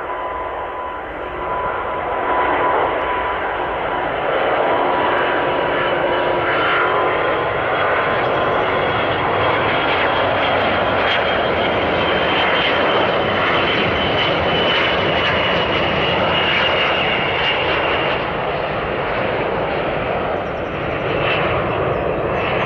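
Airbus A350 taking off on a single jet engine at takeoff power, a steady loud jet noise with a high whine; the other engine is shut down to simulate an engine failure. The sound swells about two seconds in and then holds.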